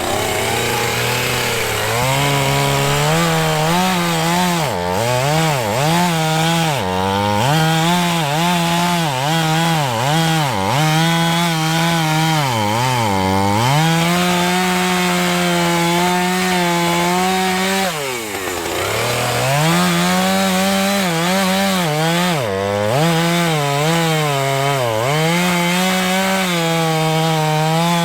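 Two-stroke chainsaw cutting through a fallen tree, the engine at full throttle with its pitch dipping again and again as the chain bites into the wood. About two-thirds of the way through it drops to a low idle, then revs back up and goes on cutting.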